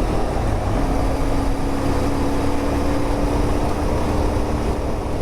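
CFMOTO 450MT's parallel-twin engine running at a steady road speed while riding, mixed with wind and road noise on the on-bike microphone. The engine note drops out briefly about half a second in, then holds steady, climbing slightly.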